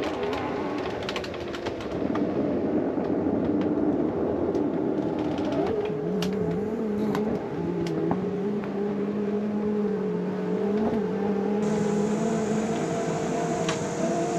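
Motorhome slide-out mechanism running as the slide-out room retracts: a steady whirring motor hum whose pitch shifts a few times.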